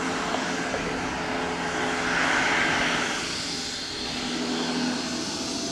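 Airbus H135 helicopter's twin turboshaft engines and rotor running steadily, with a swell in the turbine whine about two to three seconds in.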